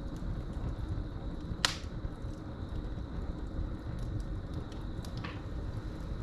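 Wood fire burning in a fireplace: a low steady rumble with faint crackles, one sharp loud pop about a second and a half in and a smaller pop near the end. Crickets keep up a steady high chirping in the background.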